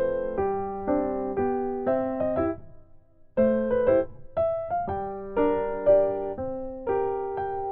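Background music: a gentle piano or electric piano playing chords and a melody, with a brief pause about halfway through.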